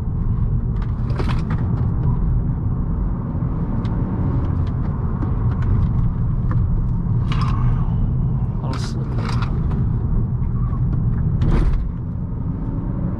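2018 Honda Accord 1.5T's turbocharged four-cylinder with CVT, driving hard along twisty mountain curves: a steady low rumble of engine and tyres, with scattered clicks and a few brief noisy swells.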